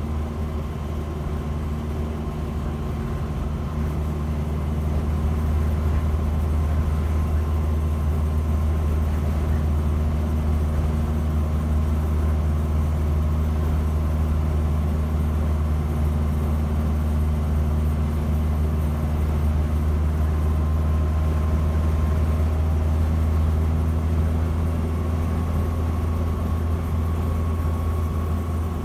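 Land Rover Series 3's 2.25-litre four-cylinder petrol engine running steadily on the move with a new exhaust fitted: more of an engine purr than an exhaust roar, but still noisy, as the vehicle has no soundproofing. It gets a little louder about five seconds in.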